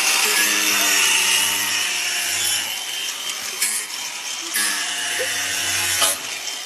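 A power tool or motor-driven machine cutting or grinding: a loud, harsh hiss over a low motor hum, in two long stretches with a brief easing about three seconds in.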